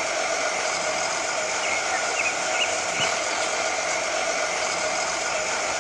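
Small electric motor whirring steadily, with a faint steady hum under the hiss and a light click about three seconds in.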